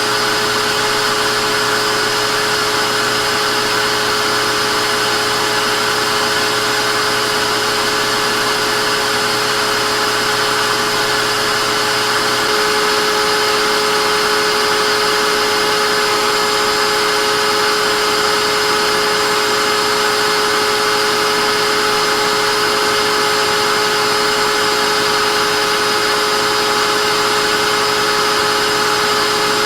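Vacuum cleaner motor running steadily: an even rush of air with a constant high motor whine. A low hum underneath drops out a little before halfway through.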